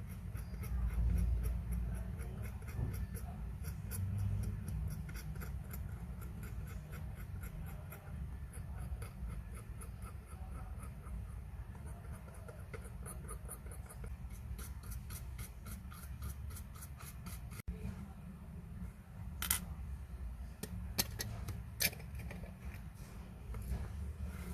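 Rapid, regular fine clicking, about four to five a second, over a low steady hum. A few sharper single clicks come near the end.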